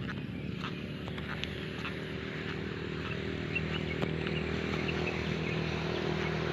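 Footsteps walking, with the steady hum of a motor or engine in the background that grows slightly louder.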